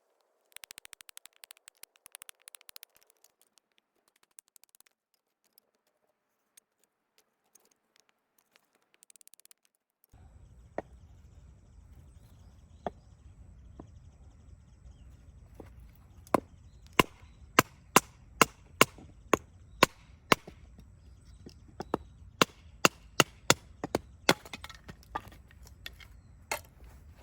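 Sharp wooden knocks of a nata (Japanese hatchet) striking and splitting firewood, in a run of about two strikes a second in the second half. It begins with a short spell of fast crackly clicking.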